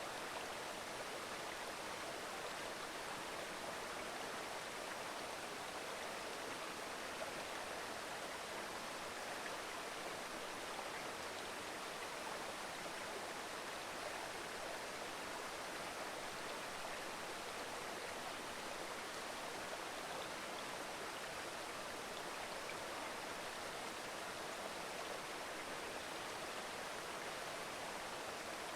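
A mountain stream babbling steadily, an even rush of running water.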